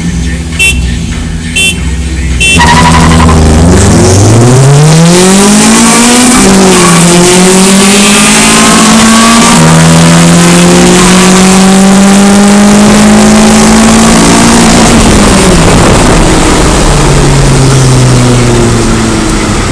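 Car's LS V8 engine idling, then launched at full throttle: the revs climb steeply, dip at a gear change about six seconds in, and then hold high and steady. Around fifteen or sixteen seconds in the revs fall away as the throttle is lifted.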